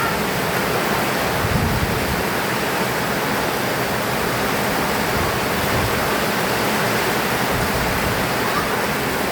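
Heavy tropical rain pouring down steadily, a dense, even hiss of water.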